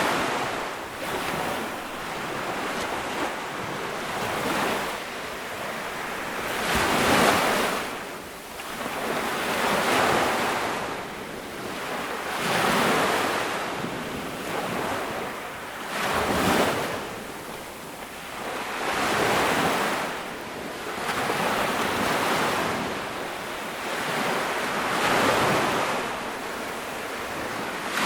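Ocean waves breaking and washing up a beach, a surge of surf every two to four seconds with a steady hiss between.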